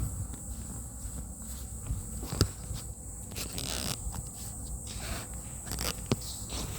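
Wood fire burning in a wood stove, giving a few sharp crackling pops, about two and a half seconds in and again about six seconds in, over a steady high-pitched whine and low rumble.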